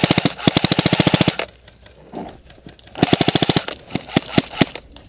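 Airsoft gun firing on full auto: a long rapid burst of about a second and a half, a shorter burst about three seconds in, then three single shots near the end.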